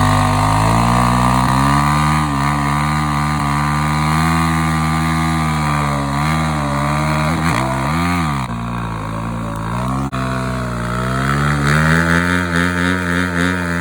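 Motorcycle engine held at high revs during a burnout, the revs dipping and climbing back about eight seconds in.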